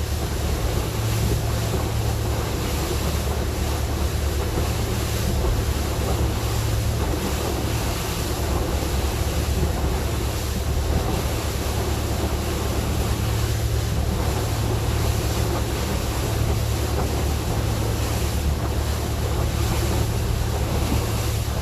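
Wind buffeting the microphone: a steady low rumble with an even hiss over it, without breaks.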